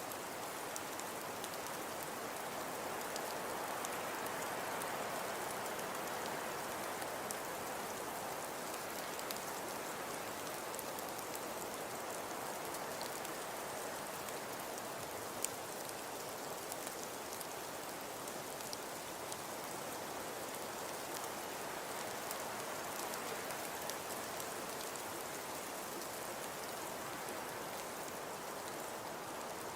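Snowfall ambience: a steady, even hiss of falling precipitation with faint scattered pattering ticks, and a small click about halfway through.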